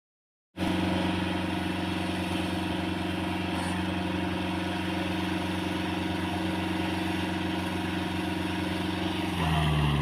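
Tractor diesel engine running steadily with a fast, even pulsing. Near the end it grows louder and its pitch shifts.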